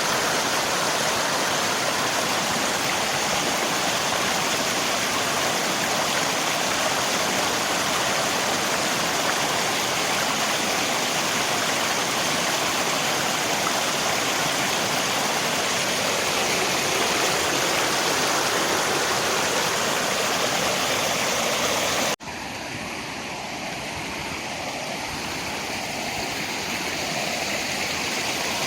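Steady rushing of river water mixed with rain. About 22 seconds in, the sound cuts abruptly to a quieter, duller version that gradually swells back up, like a splice in the recording.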